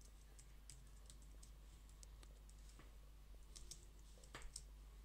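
Faint computer keyboard typing: scattered key clicks, with a quicker, louder cluster of keystrokes about three and a half to four and a half seconds in.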